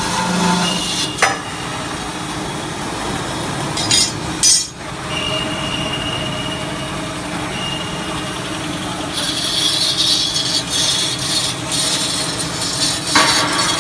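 Large CNC band sawing machine running, a steady mechanical noise. There are two short sharper bursts about four seconds in, and a hissing joins from about nine seconds on.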